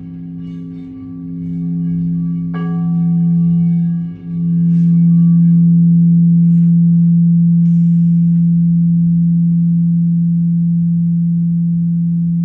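Singing bowl sounding a steady low hum with ringing overtones. It is struck once about two and a half seconds in, and the tone swells louder, then holds and slowly fades.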